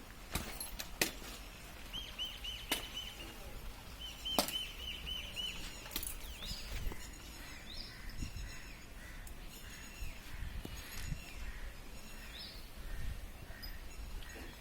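A bird chirping in two quick runs of short repeated notes, with several sharp clicks or knocks scattered through, over a low steady rumble.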